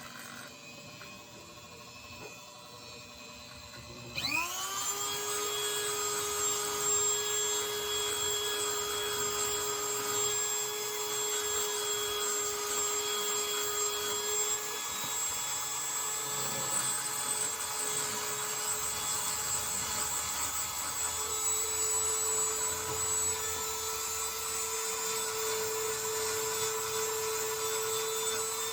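Dremel rotary tool with a small sanding attachment switched on about four seconds in, spinning up quickly to a steady high whine and running on while it sands rust off a metal RC shock body. Its pitch steps up slightly past the middle.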